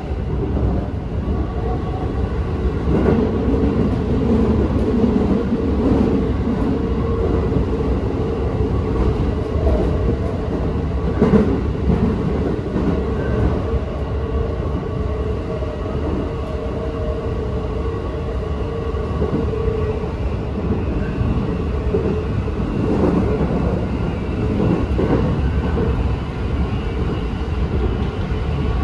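Keikyu 1000 series electric train with a Mitsubishi full-SiC VVVF drive, running at speed and heard from inside the car. Wheels rumble steadily on the rail, with a steady hum that fades about two-thirds of the way through and a sharp clack about eleven seconds in.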